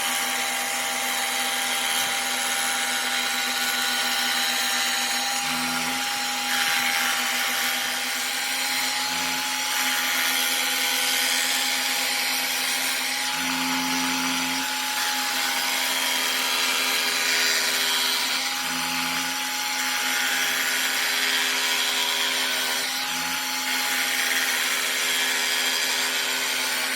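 A handheld electric power tool motor running steadily, with a high hiss over its hum that swells slightly every few seconds as the load changes.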